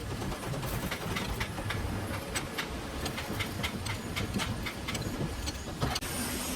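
Workshop noise: a steady low mechanical rumble with a quick run of light, sharp taps, about five a second, through most of it. The sound cuts off abruptly near the end.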